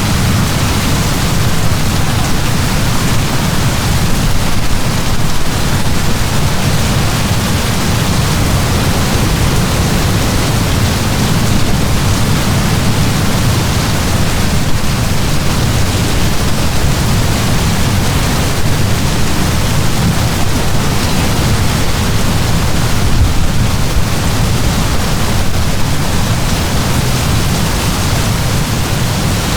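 Heavy rain in a steady downpour: an even, unbroken hiss with a strong low rumble underneath.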